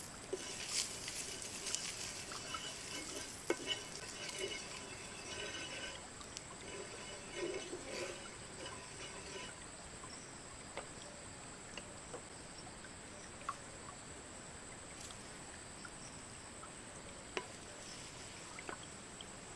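A steady high-pitched insect drone, with crackling and scattered small clicks and taps that are busiest in the first half and thin out to occasional clicks later.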